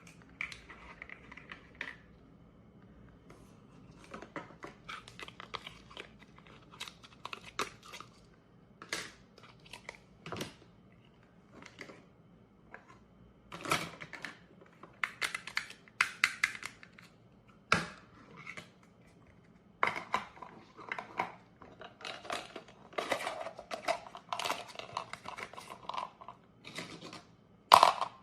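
Velcro-joined plastic toy fruit being cut apart with a toy knife: short tearing rasps as the Velcro halves separate, mixed with plastic clicks and taps, in irregular bursts with quieter gaps between.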